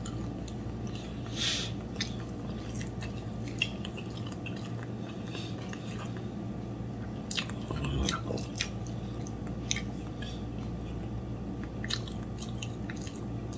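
A person chewing a mouthful of pancake with the mouth closed, small wet clicks and smacks coming at irregular moments, over a steady low hum.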